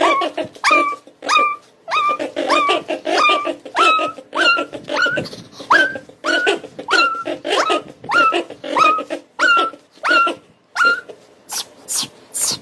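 Small dog, a mini bichon, giving a quick run of growl-whines, each a low rumbling growl topped by a short rising whine, about one and a half a second, so that together they sound like an engine's exhaust note. Near the end come three shrill, high squeaks.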